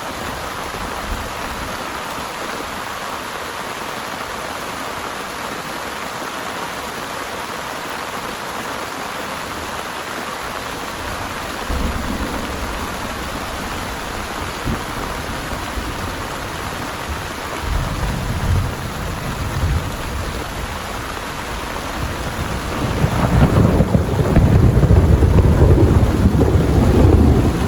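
Heavy rain falling steadily, with rolls of thunder rumbling low about a third and two thirds of the way in, then a longer, louder rumble of thunder over the last few seconds.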